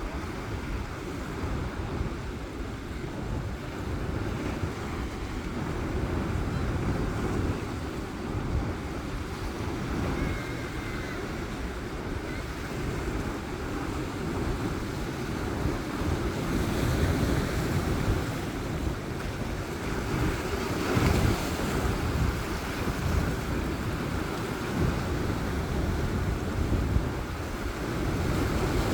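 Sea waves washing in, with wind buffeting the microphone into a steady low rumble that swells now and then.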